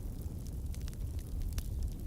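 Wood fire burning: a steady low rumble of flames with a few scattered sharp crackles and pops of burning logs.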